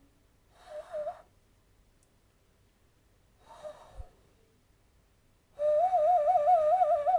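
Hand whistle blown through cupped, clasped hands between the thumbs. A short breathy hoot about a second in and a faint breathy puff a few seconds later, then from about five and a half seconds a loud, hooting, bird-call tone that warbles up and down about six times a second.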